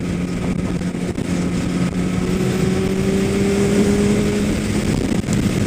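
Kawasaki ZX-10R sport motorcycle running steadily at freeway cruising speed, its engine note held over a constant rush of wind and road noise. A fainter tone rises slightly in the middle.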